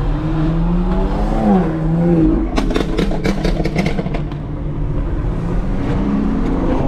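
Modified BMW engine and loud exhaust revving, the pitch climbing then falling, followed about two and a half seconds in by a rapid string of sharp exhaust pops and crackles on the overrun, then steady engine drone.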